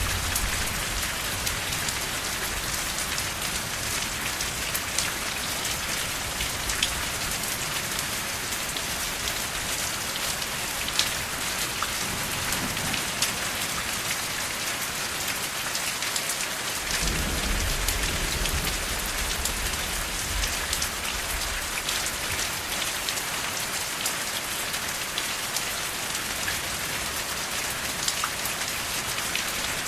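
Steady rain falling on a surface, a dense even hiss with fine crackling drops. A soft low rumble swells briefly a little past halfway.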